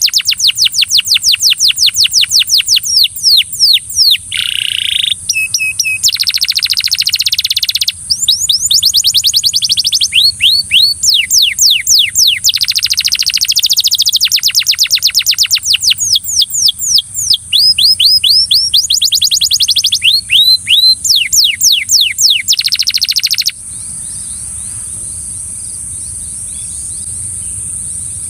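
Canary singing: fast trills of rapidly repeated, downward-sweeping whistled notes, changing from one roll to the next. The song breaks off about 23 seconds in, leaving a steady high hiss.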